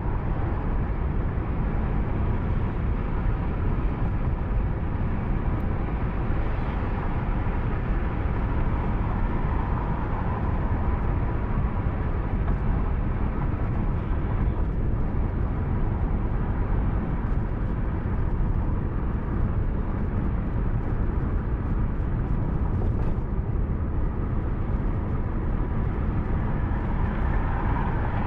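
Steady road and engine noise of a moving car, picked up by the dashcam inside the cabin, with a faint steady whine running through it.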